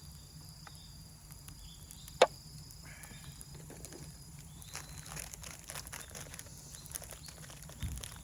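Wood fire crackling, with one sharp pop about two seconds in and scattered small crackles through the second half, over a steady high insect trill that stops about halfway through.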